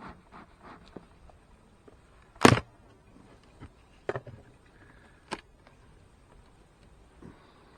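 A few sharp knocks over a quiet background: one loud one about two and a half seconds in, then two fainter ones.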